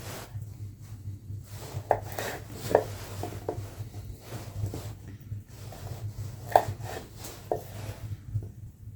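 Irregular knocks and short ringing clinks of pots, utensils and wood being handled, over a steady low hum.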